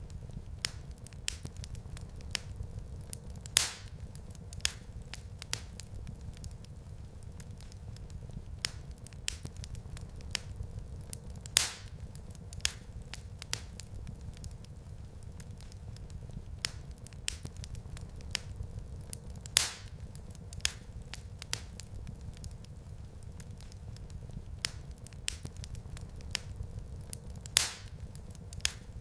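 Wood fire crackling in a fireplace: a steady low rumble of flames with many small snaps and a louder pop about every eight seconds.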